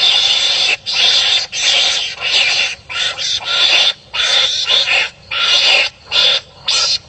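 Animals barking harshly at each other, in a string of rough calls each half a second to a second long with short breaks between.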